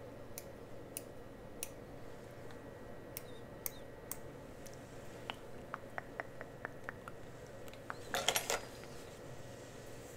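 Close-up ASMR handling of cosmetic products and their packaging: light clicks and taps spaced out at first, then a quicker run of small ticks, and a short crackling burst, the loudest sound, about eight seconds in.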